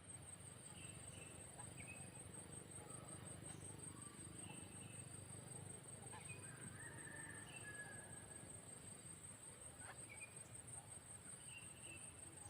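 Faint, steady high-pitched pulsing trill of insects such as crickets, with a few short, scattered bird chirps over it.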